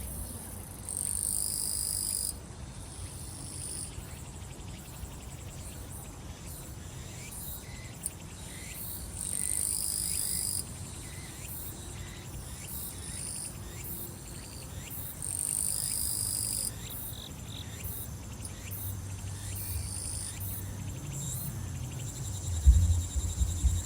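Summer grass insects: a steady high trilling chorus with a louder, higher buzz that comes three times, each lasting about a second and a half. A low thudding beat of distant music comes in near the end.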